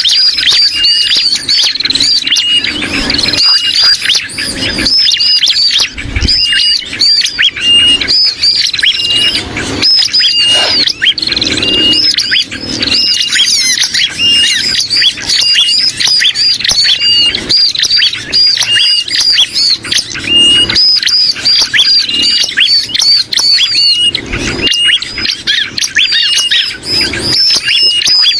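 Bird-lure recording of bar-winged prinia calls mixed with sooty-headed bulbul calls, agitated and in distress as if a bird were trapped, a call mix used to draw prinias in. It is a fast, unbroken run of high, repeated chirps and call notes.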